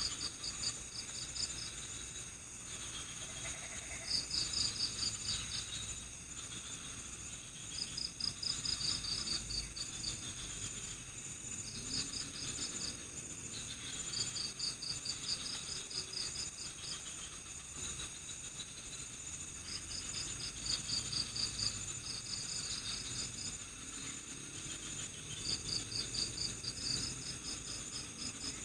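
Night-time chorus of crickets: a steady high-pitched trill, with short trains of rapid chirps breaking in every few seconds.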